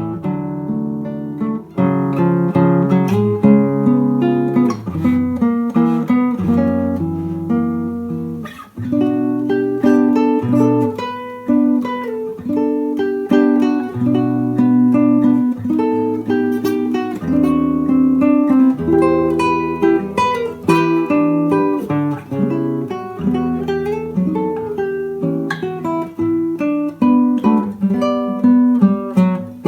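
Solo acoustic guitar playing a slow nocturne arrangement: a plucked melody over lower bass notes, without a break.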